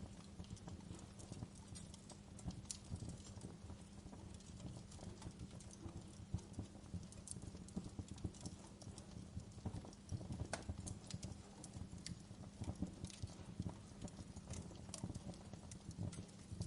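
Wood fire crackling in a fireplace: irregular sharp pops and snaps over a steady low rumble of the burning logs, the pops coming thicker about two-thirds of the way through.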